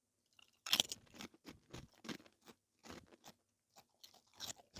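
Close-up chewing and crunching of food, a run of irregular crunches with the loudest about a second in and fainter ones after.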